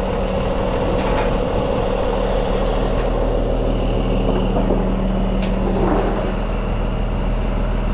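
Diesel truck engine running steadily at idle, with a few faint clicks and a brief swoop in pitch about six seconds in.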